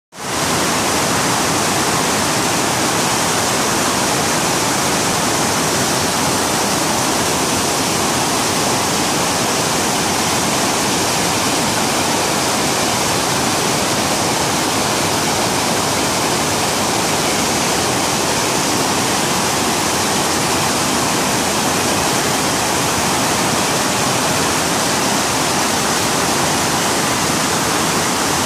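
Fukiware Falls, a waterfall, with water pouring in a loud, steady, unbroken rush that does not change.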